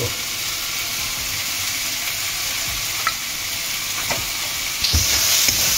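Spiced tomato masala sizzling in oil in a pan while it is stirred, with a few light spoon knocks. The tomatoes are frying down for the potato stuffing. The sizzle grows louder near the end.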